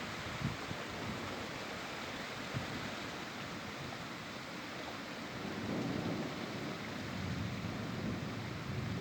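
Steady rain falling during a thunderstorm, with a low rumble of thunder swelling up about five and a half seconds in.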